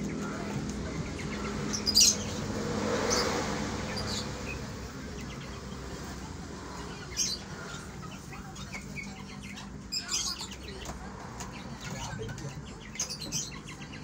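Scattered short, high bird chirps. About two seconds in comes a sharp knock, then a brief flutter of wings.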